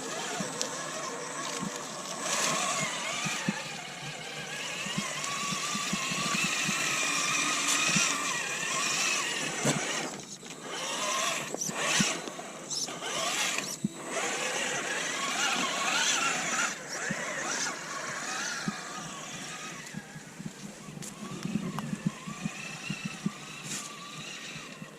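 Element Enduro Sendero SE RC crawler's electric motor and gearbox whining as it crawls, the pitch rising and falling with the throttle. A few sharp knocks come in the middle.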